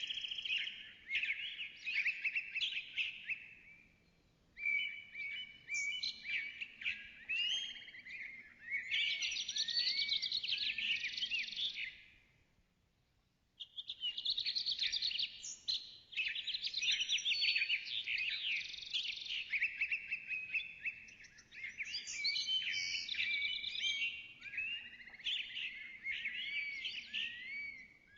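A songbird singing long, fast, varied warbling phrases full of rapid whistled slurs and trills, breaking off briefly about four seconds in and again for about a second around the middle.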